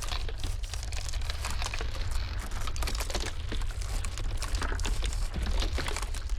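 Ice cracking: a dense, irregular crackle of small snaps and ticks over a steady low rumble.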